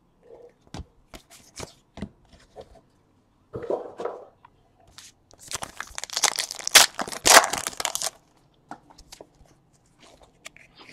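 Trading-card pack wrappers and cards being handled: scattered light clicks and rustles, with a longer stretch of tearing and crinkling from about five and a half to eight seconds in.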